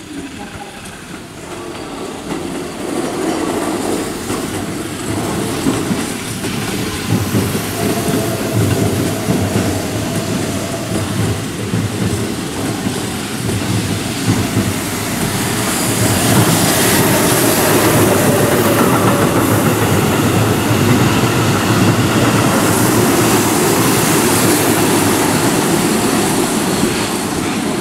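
Keihan electric trains moving through the station: wheels clattering over rail joints and points, with a faint whine now and then. The noise builds to a steady, loud rumble about halfway through as trains pass close by.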